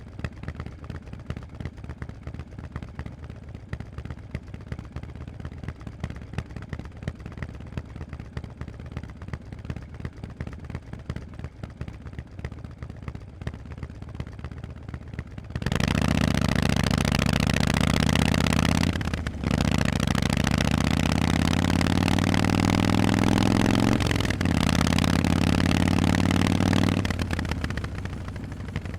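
Harley-Davidson Forty-Eight's air-cooled V-twin, through Vance & Hines exhausts, idling with a steady, lumpy rumble. About halfway through it opens up loudly and accelerates, pitch climbing, with two short breaks in the sound as it shifts up. It then backs off to a quieter run near the end.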